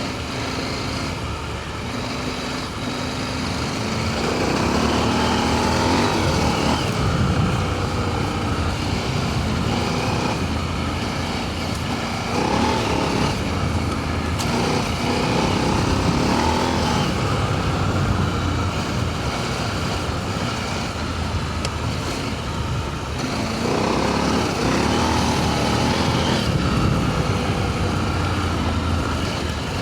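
Adventure motorcycle engine running under way on a dirt trail, the revs rising and falling with the throttle and loudest in three surges, over a steady rush of wind and tyre noise.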